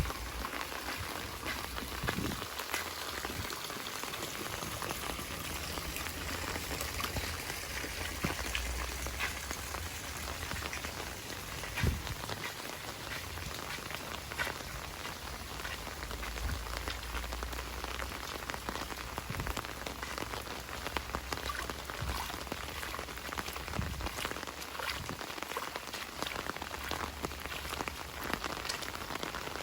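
Heavy rain falling steadily, with many close drops striking and one louder thump about twelve seconds in.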